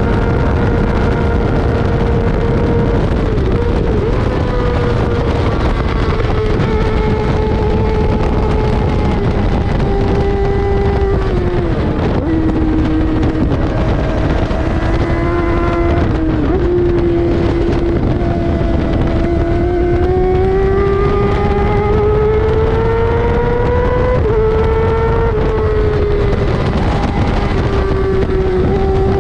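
Racing sportbike engine at high revs, its pitch climbing steadily and then stepping down sharply several times as the bike shifts gears, with a steady rush of noise underneath.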